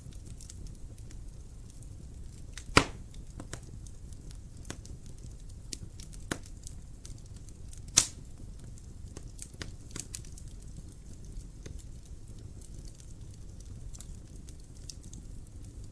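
Wood fire in a fireplace crackling, with a low steady rumble and scattered sharp snaps; two loud pops, one about three seconds in and one about eight seconds in.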